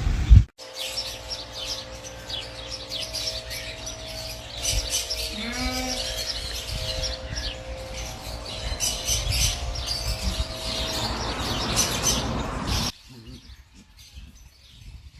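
Birds chirping rapidly and repeatedly at a high pitch, stopping abruptly near the end.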